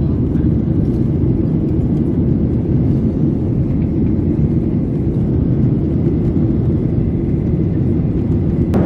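Steady low rumble of a jet airliner cabin.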